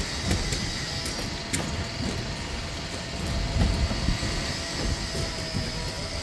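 A train running on the station tracks: a steady low rumble with faint steady tones above it and a few sharp clicks.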